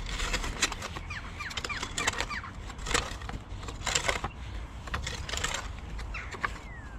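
Sawn wooden log blocks knocked and clattered together as they are handled and set down one after another to lay a path, with irregular sharp knocks that are loudest about three and four seconds in.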